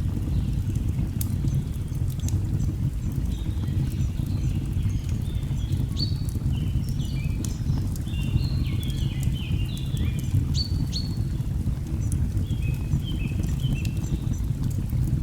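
Fireplace ambience: a log fire crackling with scattered sharp pops over a steady low rumble, while a songbird sings several phrases of short, stepped notes that fall in pitch.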